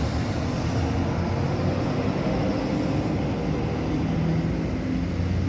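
Diesel engine of a Scania K440 coach running steadily with a low hum.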